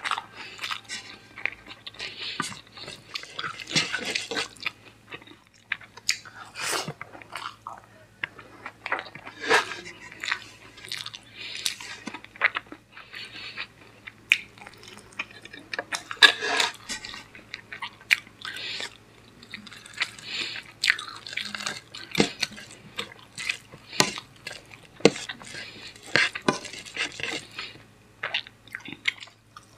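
Close-up chewing of mouthfuls of spicy egg biryani eaten by hand, with irregular wet mouth clicks and smacks that come and go as each mouthful is taken.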